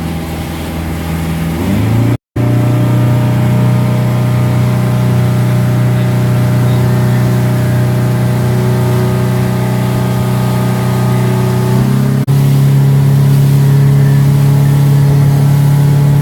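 Motorboat engine running under way at speed, a steady pitched drone that steps up in pitch about two seconds in and again about twelve seconds in as the throttle is opened further. The sound breaks off completely for a moment just after two seconds.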